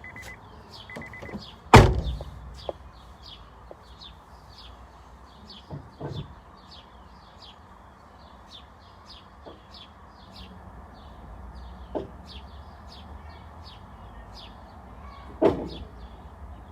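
A car door slamming shut with a loud thump about two seconds in and again near the end, with a few lighter knocks between. A car's chime beeps briefly at the start, and a bird chirps over and over, about twice a second.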